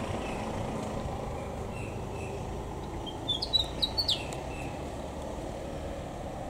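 A bird chirping: a few short high chirps, then a quick run of rising chirps ending in a sharp falling call about three to four seconds in. Under it is a low steady rumble from a car that has just driven past.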